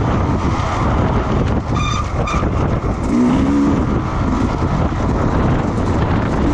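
Racing motorcycle engines running on a circuit under a loud, continuous rumble, with a brief higher engine note about two seconds in.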